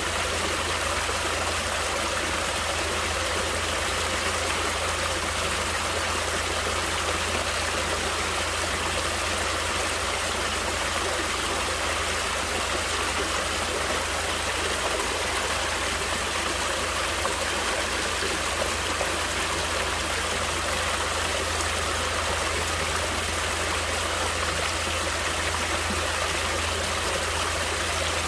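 Natural running water flowing steadily, an even, unbroken rushing sound with no breaks or surges.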